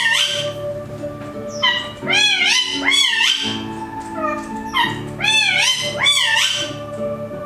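Indian ringneck parakeet calling shrilly, in bursts of three or four rising-and-falling calls that repeat about every three seconds. Under the calls, a backing track holds low sustained notes.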